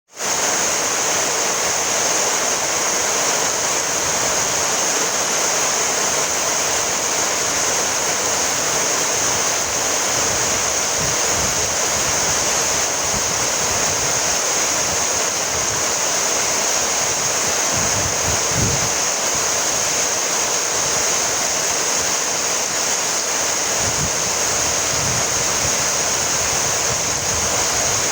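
Steady rainfall, a dense even patter with no breaks, with a soft low rumble about two-thirds of the way in.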